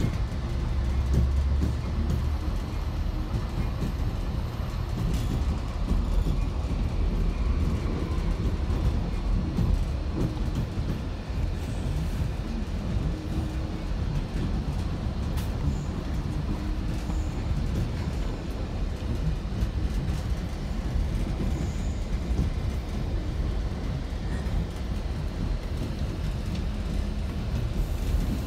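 Trinity Railway Express commuter train running, a steady rumble heard from inside the passenger car.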